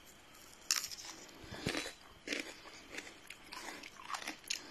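Someone biting and chewing raw cucumber: a series of crisp, wet crunches, the first under a second in, then more at irregular intervals of about half a second to a second.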